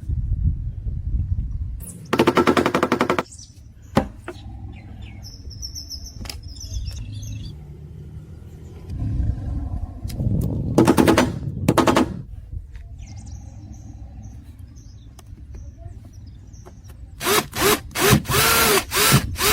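Homemade single-cylinder magnet engine clattering in rapid bursts of clicks, three runs of a second or more each, over a low rumble.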